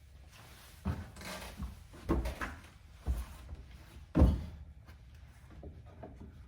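A handful of separate knocks and thumps of wooden pieces being handled and set in place, the loudest about four seconds in.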